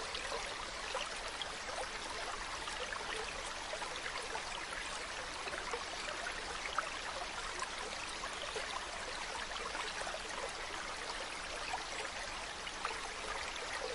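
Mountain stream running over rocks: a steady babble and trickle of flowing water with small splashes throughout.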